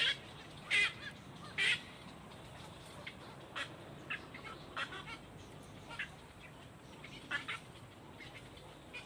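Bird calls: three loud, short, harsh calls in the first two seconds, then scattered softer chirps and clicks that fade out near the end.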